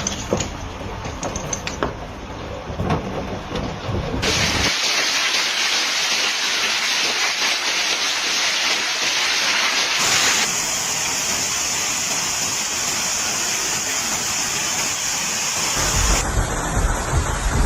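Storm noise from several clips cut together. First, wind buffeting the microphone as a low rumble with scattered knocks. About four seconds in, a sudden switch to a loud, steady rushing hiss, which turns brighter at about ten seconds. The low wind rumble returns near the end.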